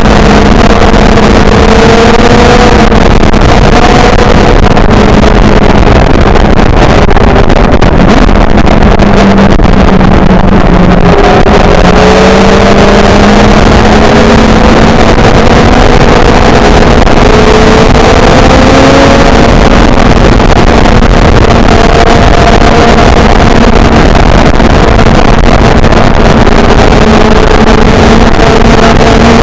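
Motorcycle engine running at a steady cruise, with wind buffeting the microphone. Its pitch drifts slowly, dipping a little about eleven seconds in and rising again.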